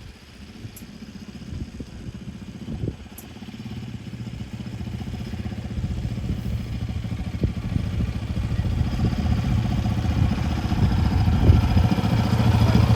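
Yamaha Raptor 700R quad bike's single-cylinder four-stroke engine running at a low, steady speed, growing gradually louder throughout.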